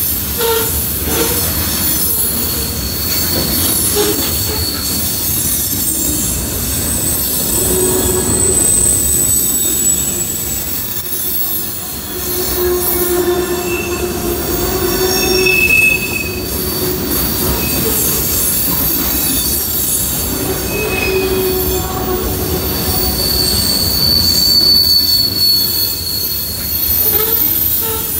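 Freight train of covered hopper cars rolling past at close range, with a steady rumble of wheels on rail. High-pitched wheel squeals rise and fade over it.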